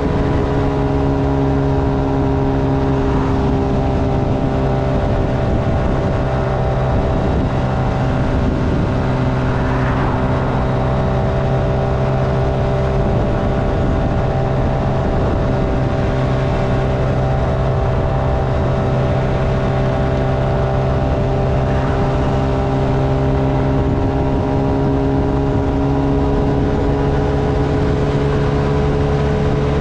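Motorcycle engine running steadily while riding, its hum drifting slightly up and down in pitch over a constant rush of noise.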